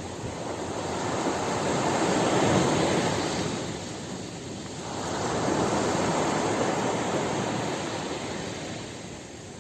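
Ocean surf on a beach: two waves wash in one after the other, the first swelling to a peak about two and a half seconds in and the second around six seconds, each rising and then falling away.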